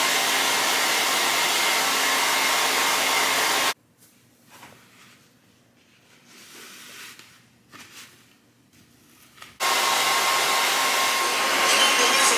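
Handheld blow dryer running with a steady blowing noise, switched off abruptly about four seconds in. After a few seconds of near quiet it comes back on just before the end.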